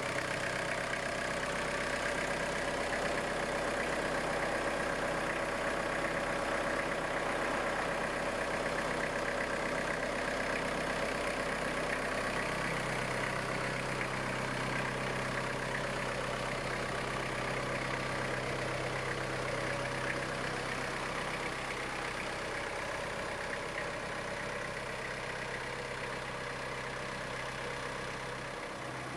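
Iseki GEAS41s tractor's diesel engine running steadily.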